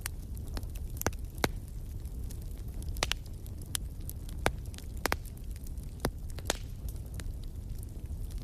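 Wood fire crackling in a stone fireplace: sharp pops and snaps at irregular moments, roughly one a second, over a steady low rumble.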